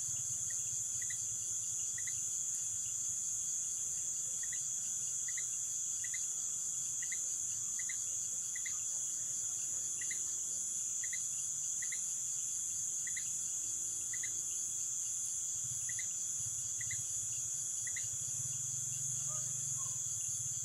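Night insect chorus in Amazonian rainforest: a steady, high-pitched shrill of crickets and other insects with a second steady, lower tone, and short chirps repeating about once a second. A few brief lower calls come in near the end.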